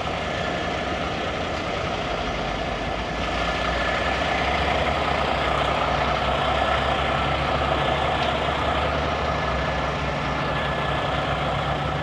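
Big-rig truck engine idling steadily, a little louder after about three seconds.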